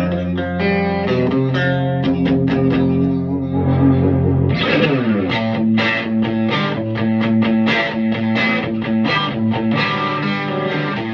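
Electric guitar played through a Vintage Sound Amp (VSA). Held notes and chords ring for the first four seconds or so, then a quick downward slide, then a run of fast picked notes.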